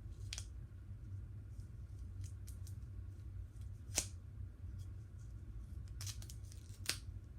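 A few short, sharp snips of cutting into a water-skipping ball's rubber shell. The loudest comes about four seconds in, over a steady low hum.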